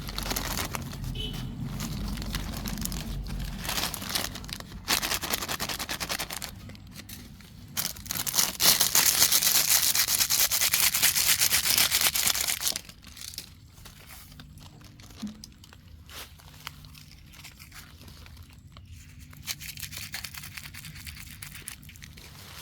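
Plastic litter crinkling and rustling as it is handled and gathered, loudest for about five seconds in the middle, then quieter, scattered rustles.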